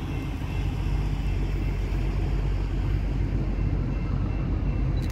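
A distant BNSF coal train led by an SD70ACe diesel locomotive approaching, heard as a steady low rumble.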